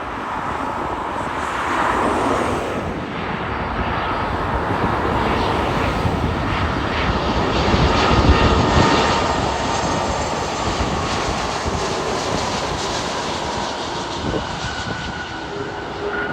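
Widebody twin-jet airliner passing on its landing: a steady engine and airflow noise with a faint turbine whine, building to its loudest about halfway through and then easing off.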